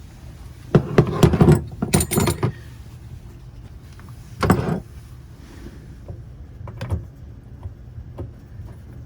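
Clattering and clinking of small metal faucet parts and tools being handled, in a cluster of knocks about a second in and a shorter burst near the middle, then a few light clicks.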